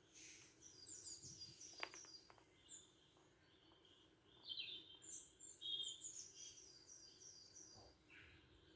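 Faint bird chirps and calls from a bird video playing on a television. There are runs of short, quick, high chirps, with a lull about halfway through.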